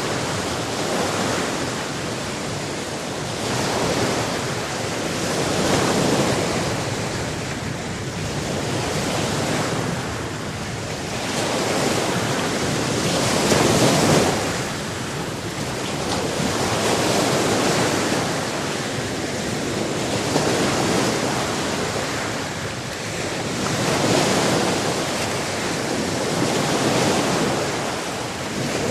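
Sea waves breaking on a shore: a steady rush of surf that swells and falls back every two to three seconds, one surge about halfway through louder than the rest.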